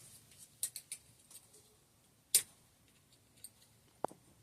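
Scattered light clicks and taps, with one sharper click about halfway and a brief ringing tick near the end, as the volume spacer is worked off the air can of a Fox DPS rear shock.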